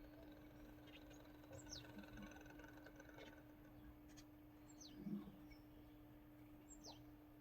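Faint small-bird calls: three thin, high chirps, each sliding quickly down in pitch, over a steady low hum, with a soft low knock about five seconds in.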